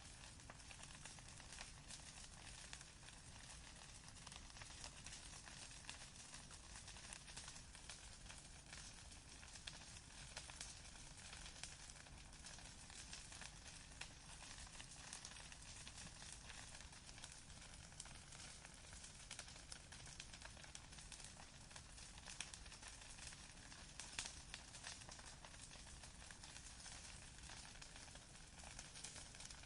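Campfire crackling quietly: a steady hiss of small crackles with a few sharper, louder pops.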